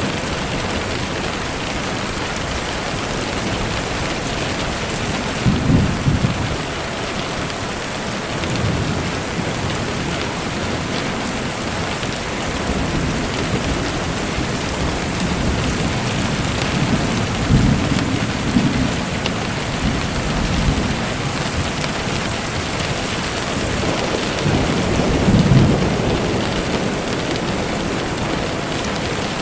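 Steady rain falling, an even hiss throughout. Low rumbles of distant thunder swell up about six seconds in, again around eighteen seconds, and near twenty-five seconds.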